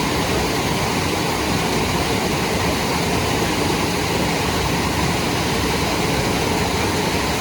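Waterfall rushing: a steady, unbroken hiss of falling water that stays the same throughout.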